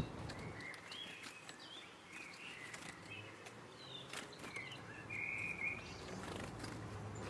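Small garden birds calling in short chirps, with a brief buzzier run of notes about five seconds in and a few faint clicks, over quiet outdoor background.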